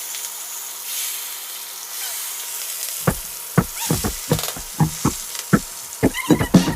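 Dove and quail meat frying in hot oil, a steady sizzle. About halfway through, a run of about ten sharp knocks starts over the sizzle.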